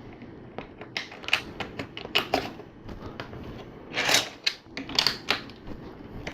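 Small plastic LEGO pieces clicking and clattering as they are sorted and picked out by hand, in scattered bursts of light clicks, the loudest about four seconds in.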